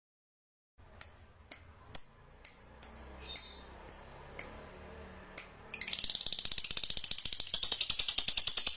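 Recorded songbird song: sharp, high, downward-sweeping call notes about twice a second, then from about six seconds in a fast, loud chattering trill that grows louder near the end.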